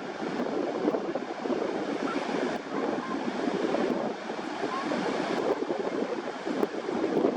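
Surf washing onto a beach: a steady rough rushing that swells and eases every second or two.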